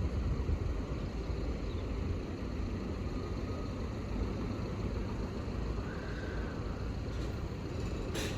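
Steady low vehicle rumble, with one short sharp click near the end.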